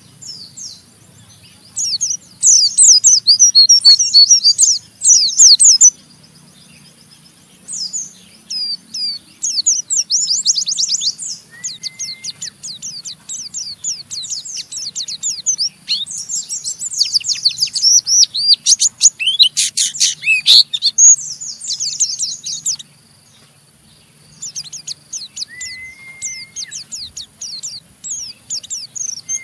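White-eye (pleci) singing ngeriwik kasar: bursts of very fast, harsh, high-pitched twittering, with a couple of short flat whistles mixed in and brief pauses about six and twenty-three seconds in.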